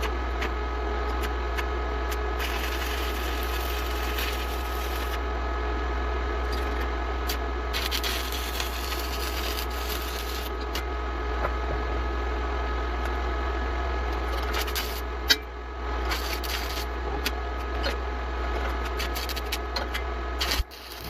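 Steady workshop noise in sped-up footage: a continuous low electrical hum with a few steady tones over it and many scattered clicks and crackles, with one sharp crack about fifteen seconds in.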